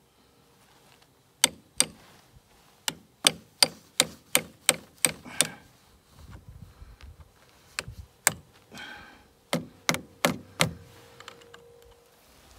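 Hammer strikes on metal pins through a rubber mat, bending them over. There are two blows, then a run of eight at about three a second, then a few more in pairs and a quick group of four near the end.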